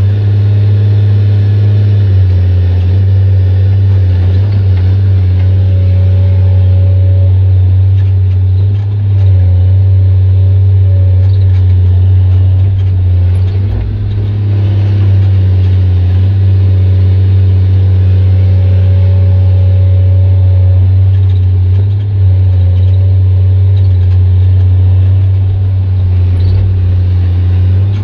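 Excavator diesel engine with an open, unmuffled exhaust, running loud with a deep, steady drone that dips briefly a few times as the machine works.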